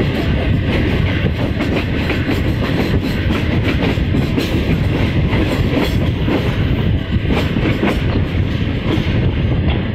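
Passenger train running, heard from one of its coach windows: a steady rumble of the wheels on the track with the clickety-clack of rail joints, a few sharper clacks about four and seven seconds in.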